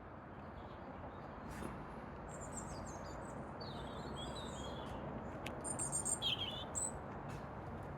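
A small songbird singing in short, high, twittering phrases, loudest a little past the middle, over a steady background hiss.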